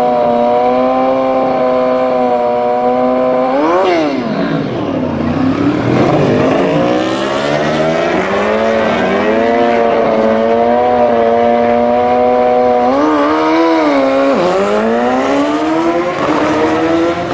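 Superbike engine at a drag strip, held at a steady high rev, with a sharp rev blip that rises and drops about four seconds in. It climbs and levels off, blips and drops again near the end, then climbs once more.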